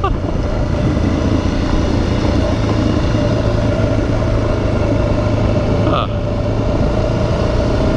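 Suzuki DRZ400's single-cylinder four-stroke engine running steadily under the rider, with an even rush of wind and road noise.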